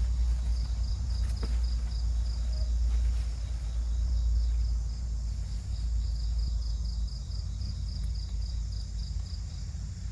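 Crickets chirping in high pulsed trills, about five pulses a second, in two long runs with a short gap between them, over a steady low rumble.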